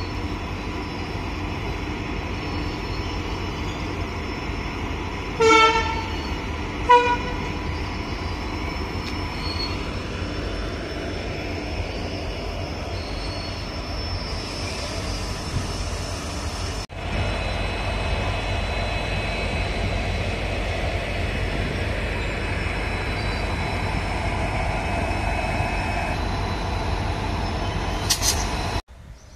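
Freight train on the move: the steady rumble of a locomotive and its car carrier wagons rolling past. About six seconds in, the locomotive sounds two short horn blasts in quick succession. A brief high squeal comes near the end.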